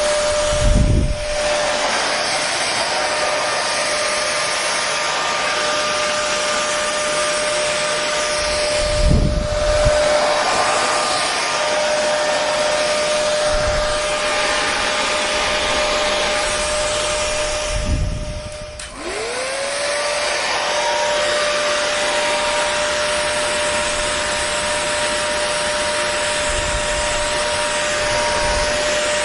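Electric hair dryer running steadily: a rushing blast of air with a constant motor whine. About 19 s in the sound dips and the motor whine slides back up to its pitch, and a few low thuds are heard earlier.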